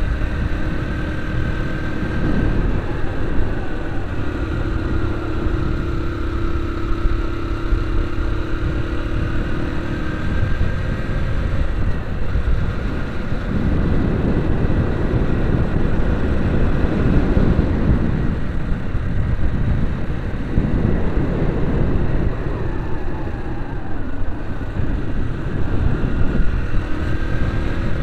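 A vehicle's engine running steadily while climbing a mountain road, its pitch drifting slowly up and down with speed, over a constant low rumble of wind and road noise.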